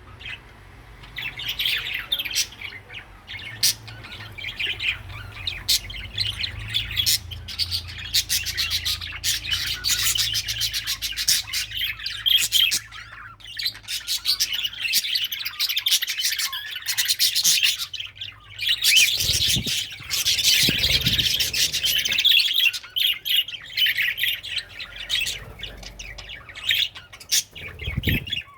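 A flock of aviary birds chattering and squawking together without pause, with many short, sharp chirps.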